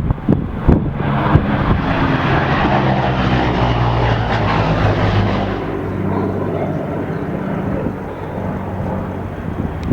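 P-38 Lightning's twin Allison V-1710 V12 engines running on a flyby pass. The drone is fullest about halfway through and turns duller in the second half as the plane moves off. A few knocks of wind on the microphone come near the start.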